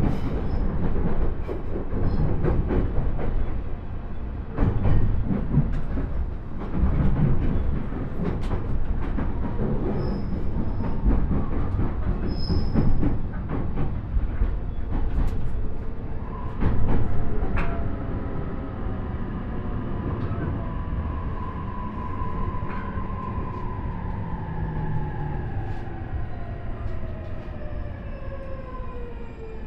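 JR East E531 series electric train slowing into a station. Wheels clatter and knock over rail joints and points, then from about halfway a multi-tone inverter and traction-motor whine falls steadily in pitch as the train brakes toward a stop.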